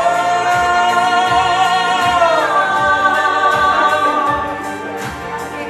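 German Schlager song: a female singer holds one long note over the backing track, stepping up in pitch a little past two seconds in. The voice fades out about four and a half seconds in, leaving the instrumental backing.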